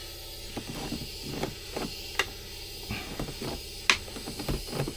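A dozen or so scattered sharp clicks and light knocks, the two loudest about two and four seconds in, over a steady low hum and hiss.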